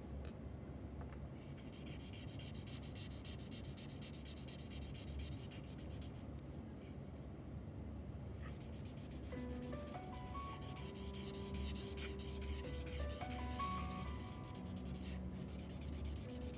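Pencil shading on paper: fast, scratchy back-and-forth strokes in runs. A simple tune of single held notes comes in a little past halfway.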